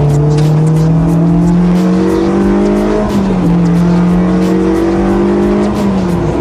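Honda Integra Type R DC5's K20 four-cylinder engine pulling under acceleration. Its note climbs steadily, drops with an upshift about three seconds in, climbs again, and drops with another shift near the end.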